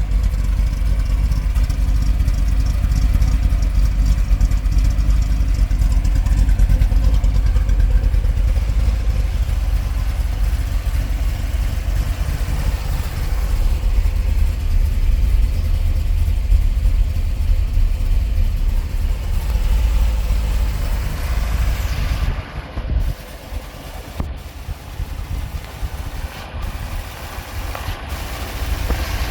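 1964 Corvette Sting Ray's 327 V8 running at idle after a cold start, a steady low rumble. About 22 seconds in it turns quieter, with a few brief gaps.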